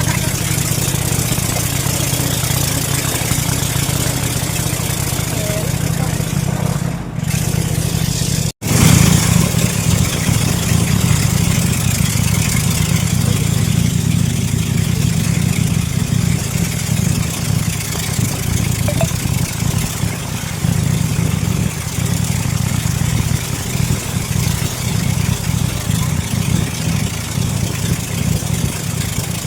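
Speedboat engine running steadily under way, with a steady hiss of wind and water over it. The sound cuts out for an instant about eight and a half seconds in.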